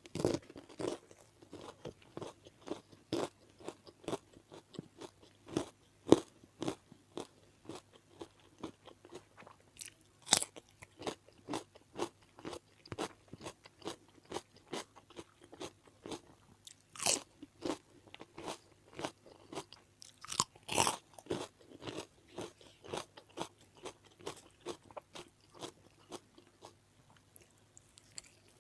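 Close-miked chewing and crunching of food, with irregular wet crunches about every second. A few louder crunching bites stand out.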